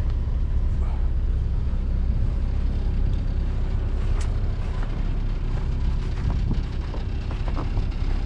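A river boat's engine running steadily: a constant low rumble, with a few faint ticks over it.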